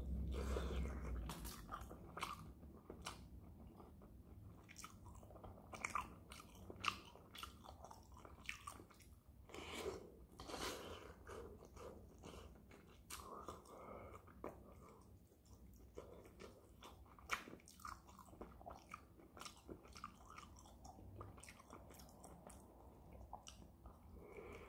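Close-miked chewing and biting of shrimp fried rice, with many short, irregular clicks and crunches, and a spoon scooping rice from a frying pan.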